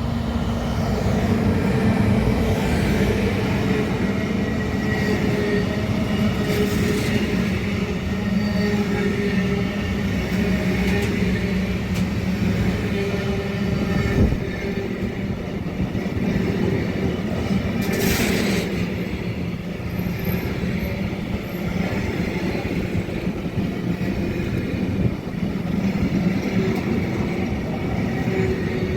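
A train running through the station with a steady rumble and hum throughout, and a brief sharp hiss about eighteen seconds in.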